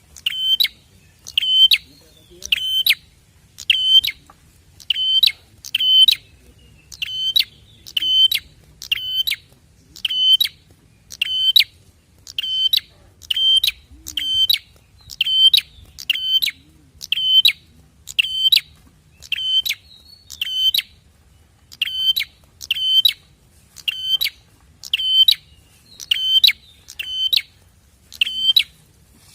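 Prinia (prenjak) giving a sharp, high chirping call over and over, about once a second. This is a lure recording used to set other prinias calling.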